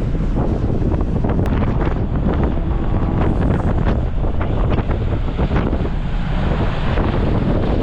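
Strong wind buffeting the microphone on the deck of a ferry at sea, a steady loud rumble with the rush of the sea beneath it.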